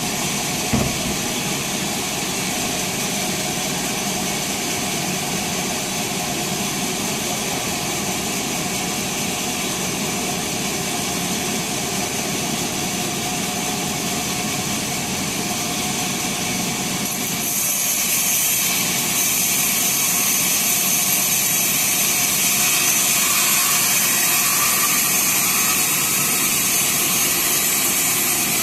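Sawmill band saw running steadily, with a brief knock near the start. About seventeen seconds in the sound grows louder, with a strong high hiss.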